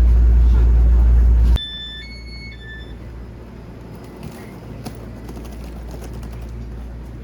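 A loud, deep rumble stops abruptly about one and a half seconds in. It is followed by a three-note electronic chime, low then high then low. A quiet steady background with a few faint clicks carries on after it.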